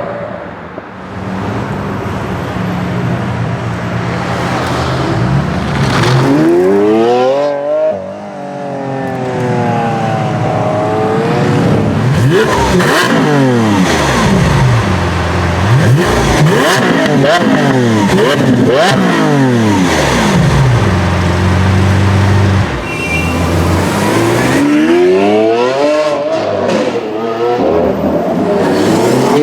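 Lamborghini Aventador V12 engine running steadily, then revved repeatedly, its pitch climbing and falling with each rev, and climbing again near the end.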